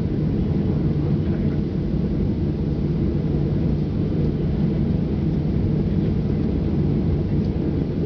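Steady low rumble of a Boeing 737-800 airliner's CFM56 jet engines, holding an even level with no build-up.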